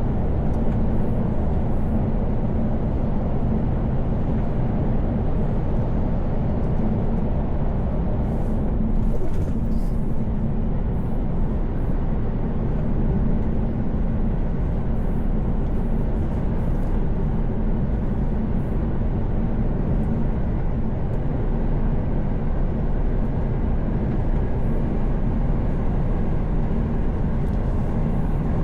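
Inside a Mercedes-Benz Actros truck cab at highway speed: a steady low drone of the engine and tyres on the road.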